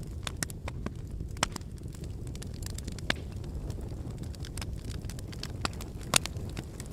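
Wood fire burning in a brick fireplace: a steady low rumble of the flames with irregular sharp crackles and pops, the loudest pop about six seconds in.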